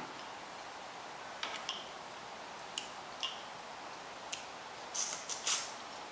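Snow crab shells being cracked and picked apart by hand: scattered small sharp clicks and crackles, several in quick succession about five seconds in.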